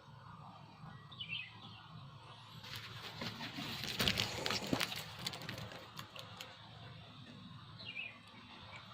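Small bird chirps twice, short and high, about a second in and near the end. In the middle, a few seconds of louder rustling and crackling noise with many sharp clicks.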